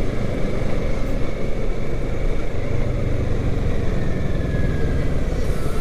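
Kawasaki Ninja 650's parallel-twin engine running at a steady pitch while riding at an even speed.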